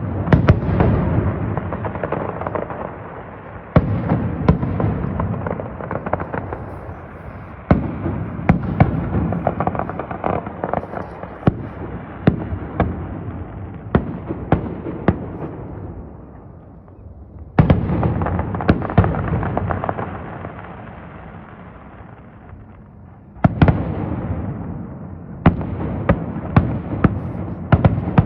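Fireworks salute: heavy aerial shell bursts booming one after another, each followed by a long rolling rumble and echo, with volleys of sharper crackling reports in between.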